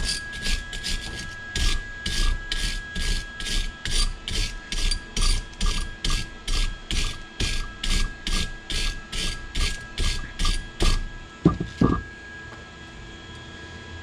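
Hand tool scraping back and forth on metal in even strokes, about two a second, for roughly eleven seconds, then two sharp knocks.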